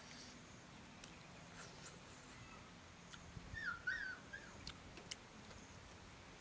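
Faint chewing and lip-smacking clicks as a piece of roast duck is gnawed, with a brief cluster of high squeaks rising and falling in pitch a little past halfway through.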